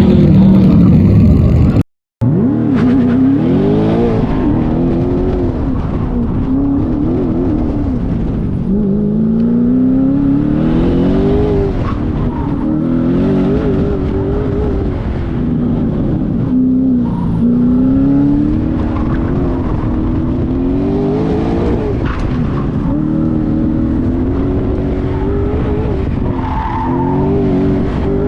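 Audi S4's swapped 4.0-litre twin-turbo V8 driven hard through an autocross course, the engine note climbing and falling again and again as it accelerates and lifts between corners. The sound cuts out briefly about two seconds in.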